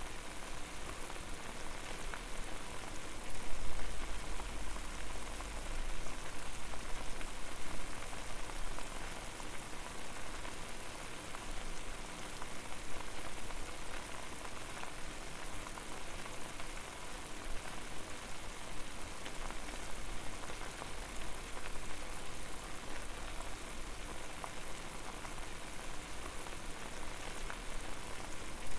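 Water boiling over a fire: a steady bubbling hiss full of fine pops and crackles, with a low rumble that swells for a few seconds about three seconds in.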